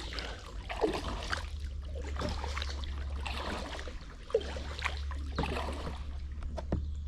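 Kayak paddle strokes: water splashing and dribbling off the paddle blade every second or so, irregularly.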